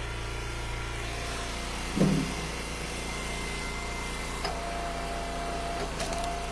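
Eastonmade Ultra log splitter's engine running steadily, with a brief loud burst about two seconds in, a thin whine joining from the middle on, and a sharp crack about six seconds in.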